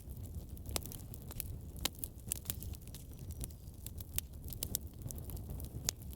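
Wood fire burning in a fireplace: frequent sharp pops and snaps of crackling logs over a low, steady rumble of the flames.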